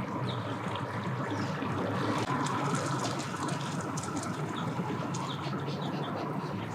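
A boat's motor running steadily in the water, a low hum, with water sounds and many small high ticks over it.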